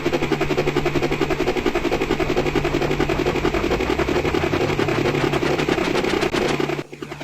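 Helicopter rotor sound effect: a rapid, steady chopping of about ten beats a second over a low engine hum, cutting out briefly near the end and then starting again.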